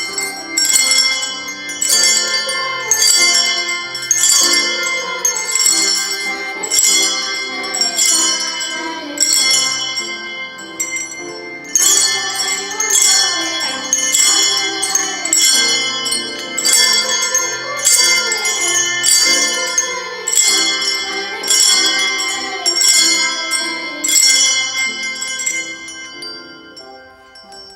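Handbells playing a tune in a steady beat of about two ringing strikes a second, with a short break just before the middle, dying away near the end.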